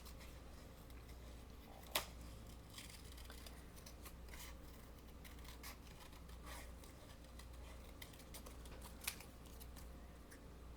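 Scissors cutting paper: faint, scattered snips as stamped paper butterflies are cut out, with a sharper click about two seconds in and again near the end.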